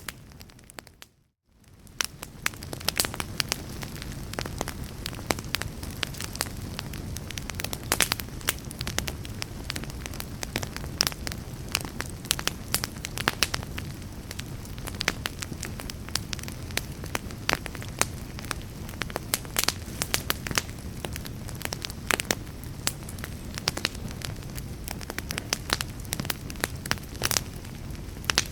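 Wood fire crackling, with frequent sharp pops and snaps over a steady low rumble of flame. About a second in the sound briefly drops out almost to silence, then fades back in.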